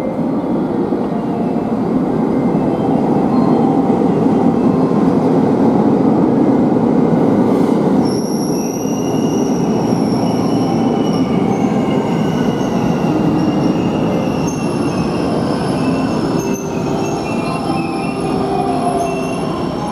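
JR West 521 series AC/DC electric multiple unit pulling into a station, with steady running and wheel noise. About eight seconds in, high-pitched brake and wheel squeal sets in and carries on as the train slows for its stop.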